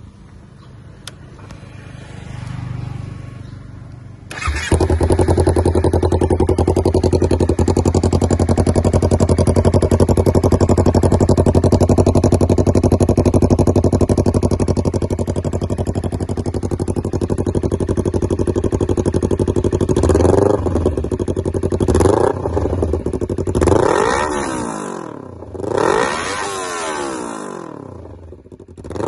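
Honda CBR250RR motorcycle engine through an aftermarket Yakuza exhaust. It starts suddenly about four seconds in and idles steadily, then is revved up and let fall back in several throttle blips, about four or five, near the end.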